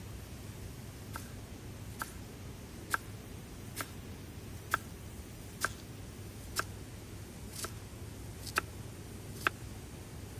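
A series of short, sharp clicks at a nearly even pace of about one a second, over a steady low hum.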